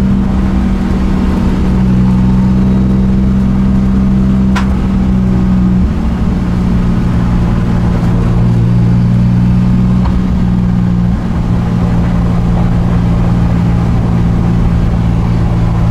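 Drift car's engine heard from inside the caged cabin, running at steady revs while the car drives along the track, its pitch shifting slightly about six and eleven seconds in. A short click about four and a half seconds in.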